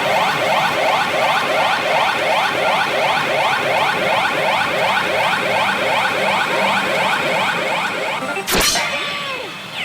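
Super Umi Monogatari in Okinawa 5 pachinko machine playing its electronic effects: a fast run of short rising chirps, about three a second, then one sharp crash near the end followed by falling tones.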